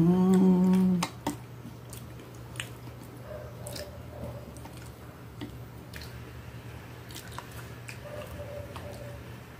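A loud closed-mouth "mmm" of enjoyment for about a second, then mouth-noisy chewing of food with small clicks of a fork against a glass plate and a couple of faint short hums.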